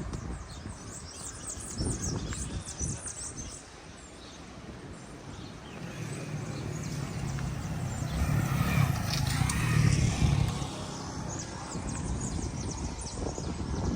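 Outdoor ambience of birds chirping, with a motor vehicle passing: its engine hum swells from about six seconds in, peaks near ten seconds and fades away.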